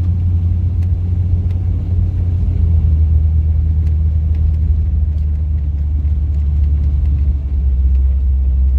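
Lifted 1998 Jeep Cherokee driving slowly through snow: a steady, loud, low engine and drivetrain rumble with no revving, and a few faint clicks over it.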